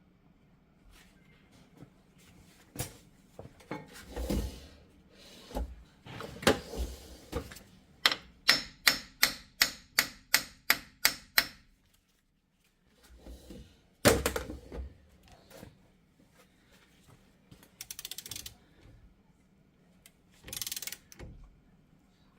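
Hammer tapping on a Jeep Wrangler front axle to free it from a seized, rusted-in hub bearing. A few scattered knocks, then a quick run of about a dozen sharp metallic taps at about three a second, then one hard strike a couple of seconds later.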